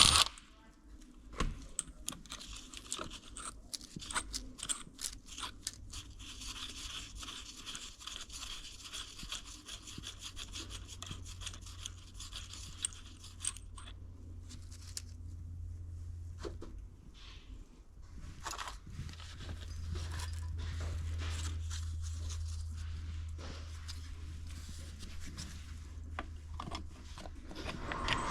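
Scraping and rubbing, with many scattered clicks and knocks of hand work, over a low steady hum.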